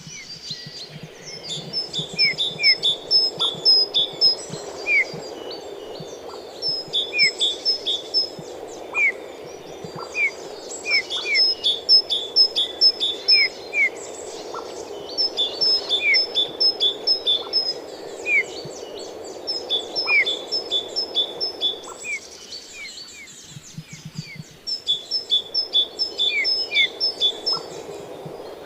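Birds singing: bouts of quick, repeated high notes every few seconds, with single lower whistled notes between them, over a steady low background noise.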